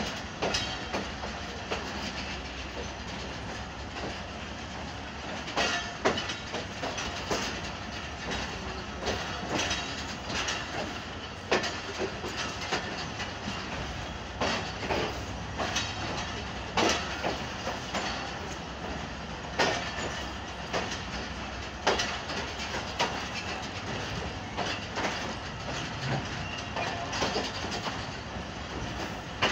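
Wheels of a moving passenger railway coach rolling over the track, heard from an open coach window: a steady rumble with irregular clacks every second or two as the wheels cross rail joints.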